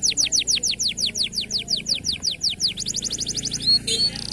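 Local domestic canary singing: a fast run of repeated falling whistled notes, about seven a second, that quickens into a faster trill near the end.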